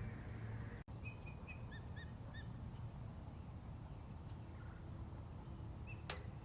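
Wild birds calling at daybreak over a steady low background hum: a quick run of short chirps about a second in, then three short arched double notes, and a single sharp click near the end.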